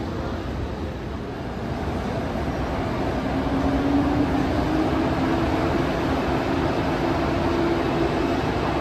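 ICE 2 high-speed electric train pulling away: a steady rail rumble, joined about three seconds in by a tone from its electric drive that slowly rises in pitch as the train accelerates.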